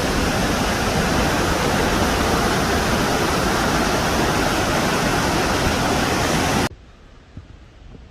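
High Falls of the Baptism River, Minnesota's tallest waterfall, making a loud, steady rush of falling water. About six and a half seconds in it cuts off abruptly, leaving a much quieter outdoor background with a few faint low knocks.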